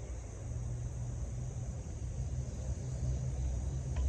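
Low, steady rumble of a distant freight train, growing slowly louder, which the listener takes to be the departing CSX train.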